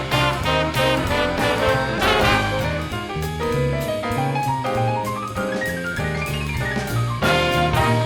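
Instrumental swing jazz with brass over a stepping bass line. About halfway through, a quick run of notes climbs high and falls back.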